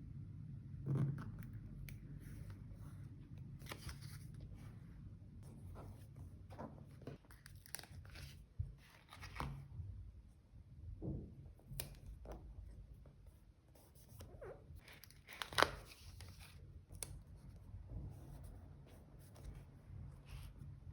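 Paper and stickers being handled for diary decorating: irregular tearing, rustling and small ticks and taps, the sharpest a little after the start and again about three-quarters of the way through.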